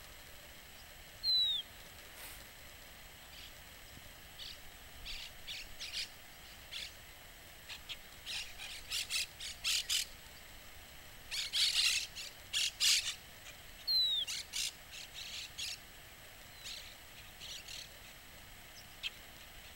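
Small birds calling: two loud, clear whistles that slide downward in pitch, about a second in and again about 14 seconds in, with bursts of short, sharp notes in between, thickest around the middle.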